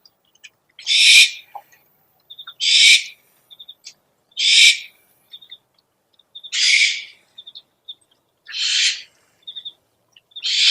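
Owl giving harsh, hissing screech calls, each about half a second long, repeated about every two seconds, with faint short pips between them.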